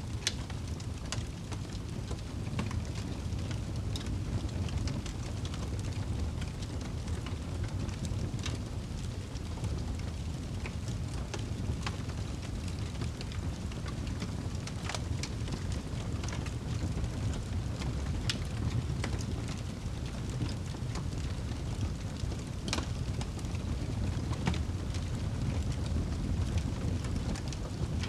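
Wood fire crackling in a fireplace: scattered sharp pops and snaps, one every second or so, over a steady low rumble.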